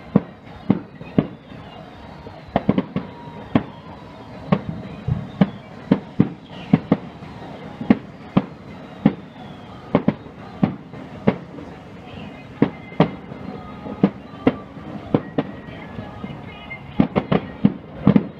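Fireworks display: a rapid string of shell bursts going off about twice a second, with a dense volley near the end and falling whistles through the first half.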